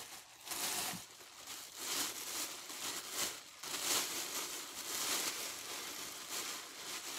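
Newspaper packing being handled and crumpled: irregular rustling and crinkling that comes and goes in short bursts.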